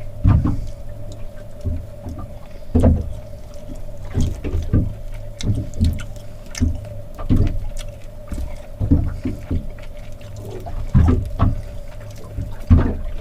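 Small waves slapping irregularly against the hull of an anchored small boat, in uneven knocks and splashes, over a steady hum.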